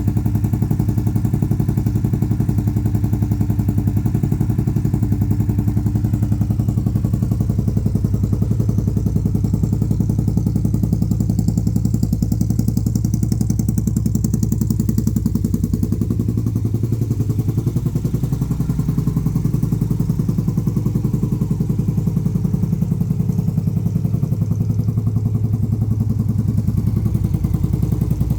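Indian Scout motorcycle's V-twin engine running steadily at idle, with a fine, even pulse.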